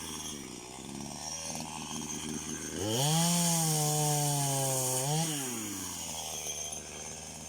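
Chainsaw engine idling, revved to full throttle about three seconds in and held there for around two seconds, then falling back to idle.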